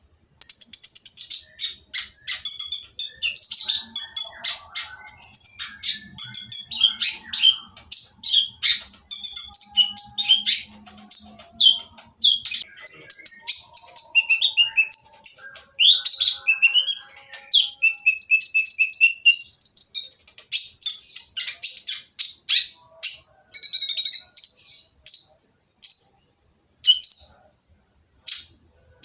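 Kolibri ninja sunbird (konin) singing a harsh, noisy song: rapid high chirps and short trills in a dense stream, with a longer held trill about two-thirds of the way through and sparser calls near the end.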